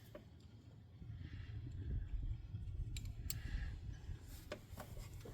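Faint handling noise from hand tools and rusty bolts being worked: a low rumble, then a few sharp metal clicks about three seconds in and again near the end.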